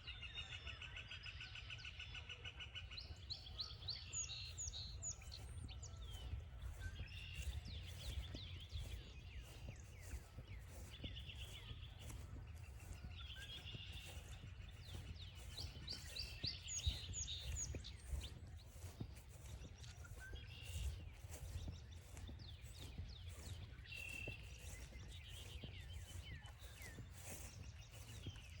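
Several songbirds calling and singing, with repeated trills and quick falling notes coming and going throughout. Under them runs a low steady rumble, and soft regular footsteps on the trail, about one or two a second.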